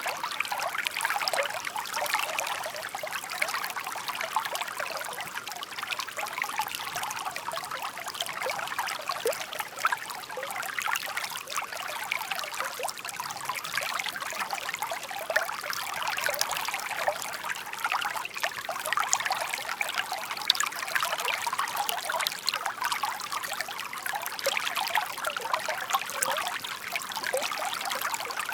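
Shallow stream babbling and trickling steadily over stones, a bright splashy flow with no let-up.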